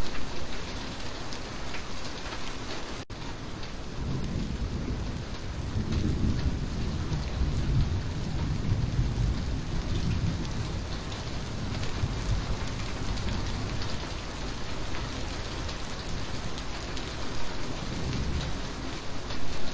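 Steady rain with low rolling thunder rumbling through the middle stretch. There is a momentary dropout in the sound about three seconds in.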